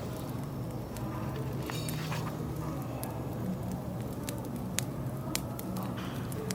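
Firewood crackling with irregular sharp pops, over the low murmur of café chatter. A brief ringing clink sounds about two seconds in.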